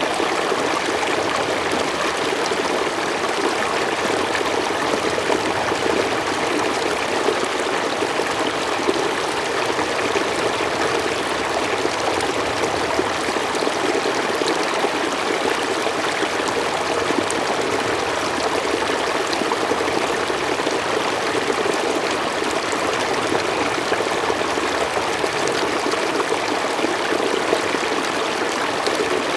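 Mountain stream flowing steadily over rocks, a constant rushing and splashing of water.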